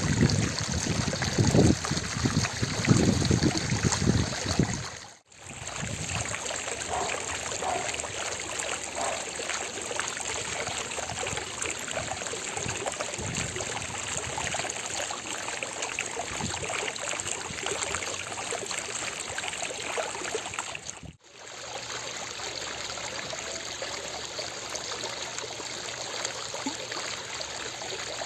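Fountain water splashing and trickling in a steady rush. The first five seconds are louder, with low rumbling gusts. The sound dips out briefly about five seconds in and again about twenty-one seconds in, then carries on evenly.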